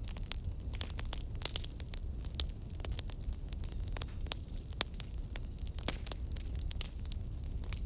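Wood fire burning in a fireplace, crackling with frequent sharp, irregular pops over a low rumble.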